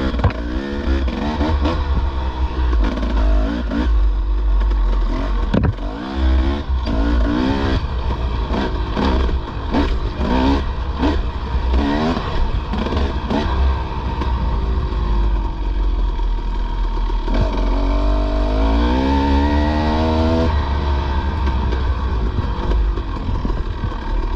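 Dirt bike engine on a rough trail, the revs rising and falling over and over as the rider works the throttle, with one long climbing rev about three quarters of the way through. Short clattering knocks run through it, with a steady low rumble underneath.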